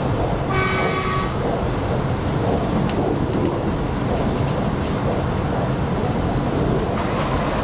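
Ride inside a Metro Trains Melbourne X'trapolis 100 electric multiple unit running along the line: a steady rumble of wheels on rails. A brief high-pitched tone sounds about half a second in, and a few sharp clicks come around three seconds in.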